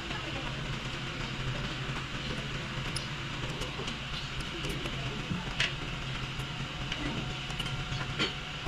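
Steady workshop background rumble with a few light metallic clicks, as valve springs and their caps are fitted onto a Toyota 2E cylinder head.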